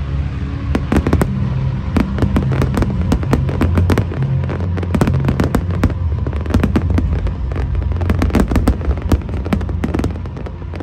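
Fireworks display going off in rapid, irregular crackles and pops, many a second, over a deep low rumble.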